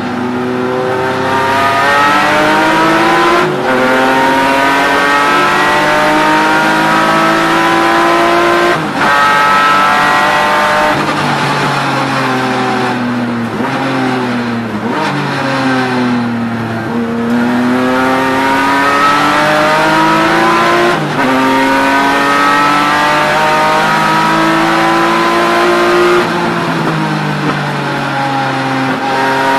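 BMW E36 M3 race car's straight-six engine, heard from inside the cabin, pulling hard up through the gears. The pitch climbs and drops back sharply at each quick upshift, falls for a few seconds around the middle as the car slows for a corner, then climbs again.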